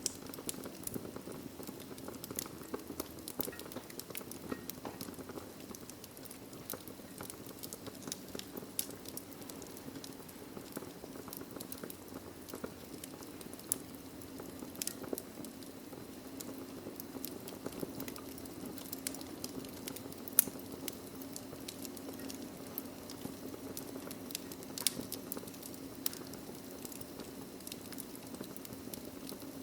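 Wood fire burning in a fireplace: logs crackling and popping in quick, irregular snaps over a steady low rush of flame, with one louder pop about twenty seconds in.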